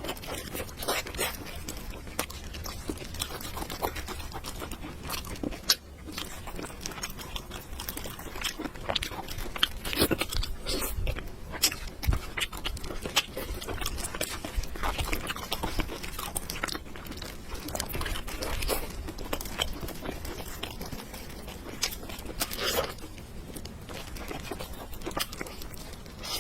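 Close-miked eating sounds: a person chewing and crunching food, with many small clicks and crackles throughout.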